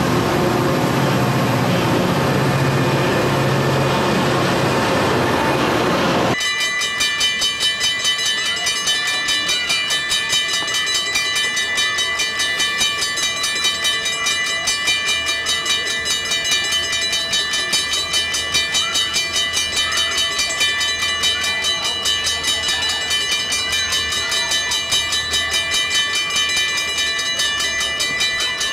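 A Metra commuter train of bilevel cars and its diesel locomotive passing close by, with wheels rumbling on the rails and a low engine hum. It cuts off abruptly about six seconds in. A grade-crossing warning bell then rings steadily with a fast, even pulse while another train approaches from the distance.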